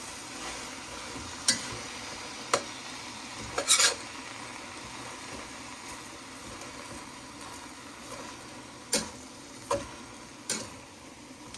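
Cabbage and carrots being stirred in a pot of hot oil over a steady low sizzle, with the stirring utensil knocking sharply against the pot about six times.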